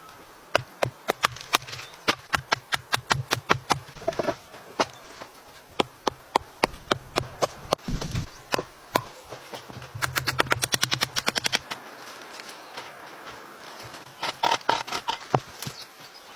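Shelter-building work with wood: a series of sharp, irregular knocks and cracks, with a quick run of clicks about ten seconds in and another cluster near the end.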